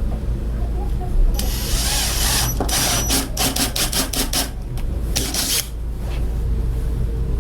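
Power drill with a paddle bit boring a washer recess, running in short bursts with a high whine, and a quick run of sharp clicks in the middle, over a steady low hum.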